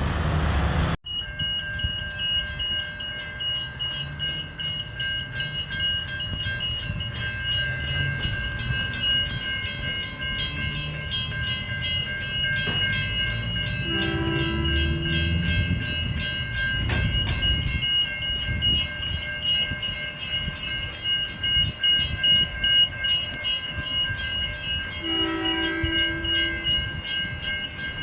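Level crossing warning bells ring steadily and rapidly over the low rumble of a passing train. The train sounds two short horn blasts, about halfway through and again near the end.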